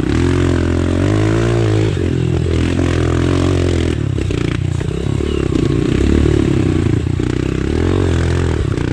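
Off-road motorcycle engine running hard, its pitch rising and falling as the throttle is opened and closed while riding.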